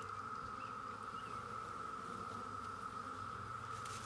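Honeybees buzzing around an opened hive, a steady droning hum with a brief light click near the end.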